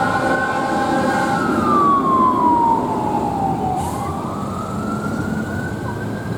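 Fire engine's siren wailing in a slow cycle: it holds high, falls over about three seconds, then climbs back up, over the rumble of the moving truck.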